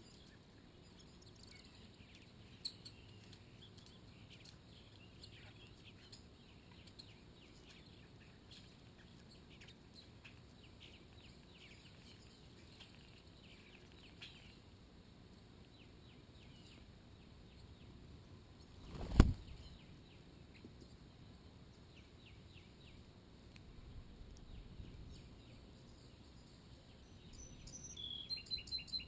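Faint chirps of songbirds over quiet yard ambience, with one sharp loud thump about two-thirds of the way through. Near the end comes a quick run of high, repeated bird notes.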